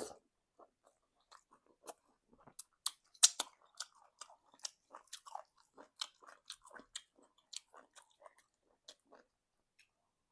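Close-miked chewing of egusi soup and semolina: irregular wet mouth clicks and smacks, the loudest about three seconds in.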